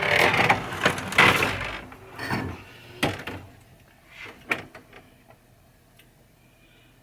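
Pinball machine playfield being lowered back into its cabinet: a loud sliding scrape for about two seconds, then a few separate knocks that fade away.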